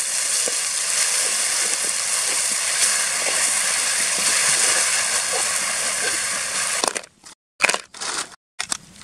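Chopped chili and garlic sizzling in hot oil in a metal wok, stirred with a metal spatula: a loud, steady frying hiss. About seven seconds in, the sizzle breaks off into short, separate bursts of sound.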